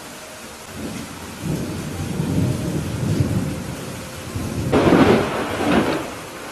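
Thunderstorm: steady rain with a rumble of thunder building about a second and a half in, then a louder, sharper thunderclap near the end that fades away.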